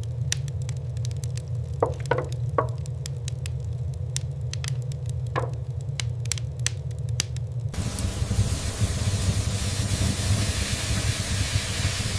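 Fire crackling, with sharp pops over a low rumble. About eight seconds in it cuts suddenly to a steady hiss of wind.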